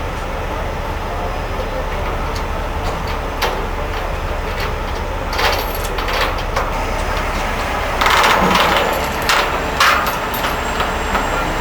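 Heavy truck diesel engine running steadily under a low rumble, with scattered sharp knocks and clanks and a louder burst of noise about eight seconds in.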